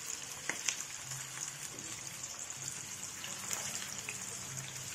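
Mutton keema kababs frying in hot oil in a pan: a steady sizzling hiss with scattered crackles and pops.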